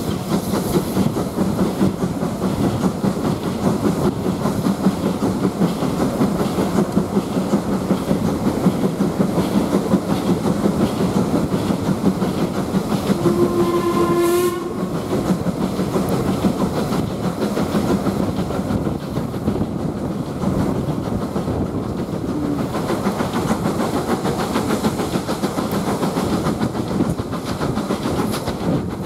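Steam-hauled passenger train running along, heard from an open carriage window: steady rumble of the carriage with wheels clicking over the rail joints. A little past halfway, a short whistle sounds for about a second, from the hauling engine, LMS Ivatt 2MT tank engine No. 41313.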